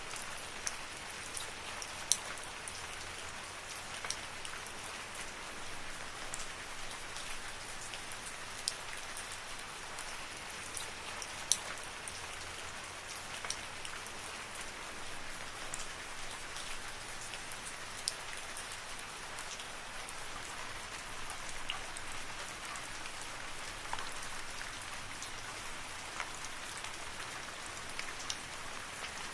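Steady rain falling in a forest, an even hiss with scattered sharp drips of single drops striking nearby surfaces.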